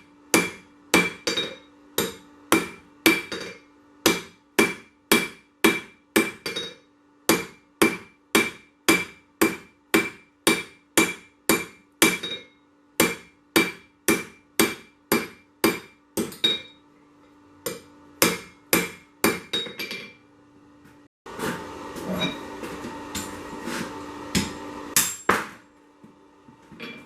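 Hammer blows on hot 1085 carbon steel over an anvil, about two a second with a bright ring on each strike, as the corkscrew body is drawn out thin; a steady hum runs beneath. The blows thin out after about sixteen seconds, and near the end a steady rushing noise with scattered strikes takes over.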